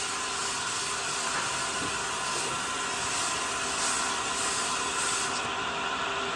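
A power tool running steadily with an even hissing noise.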